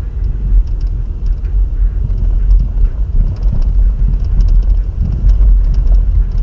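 Blizzard wind buffeting the microphone: a heavy, uneven low rumble that surges and falls, with faint scattered ticks.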